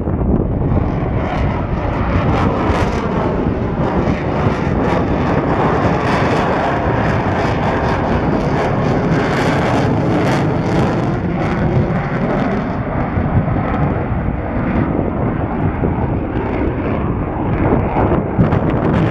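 Boeing F/A-18F Super Hornet's twin F414 turbofan jet engines in a display pass: loud, crackling jet noise whose pitch sweeps as the aircraft passes. The top end of the crackle eases off about two-thirds of the way through.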